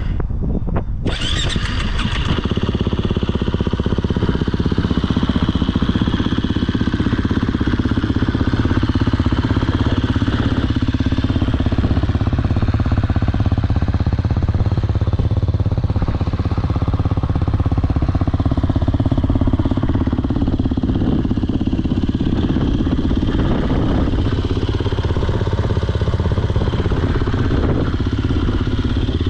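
KTM EXC 350's single-cylinder four-stroke engine with an Akrapovič exhaust, starting about a second in, then running steadily at idle.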